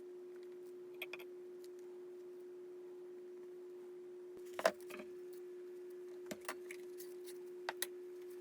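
A faint steady hum with a few light clicks and taps, the loudest a little past halfway.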